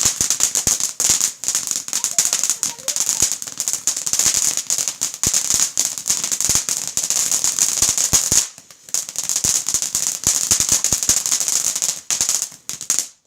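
Garden firework going off: dense, rapid crackling over a steady hiss, easing briefly a bit after eight seconds and then picking up again before cutting off suddenly near the end.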